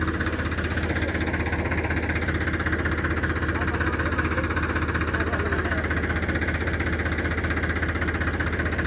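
Tractor's diesel engine running steadily, with a fast, even beat.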